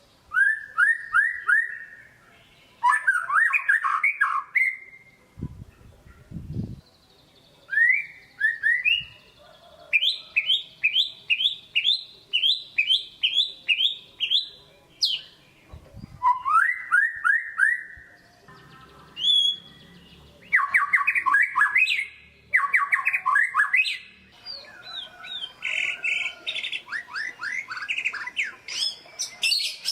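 White-rumped shama singing: phrases of rapid, repeated rising whistled notes, one phrase after another with short pauses between them.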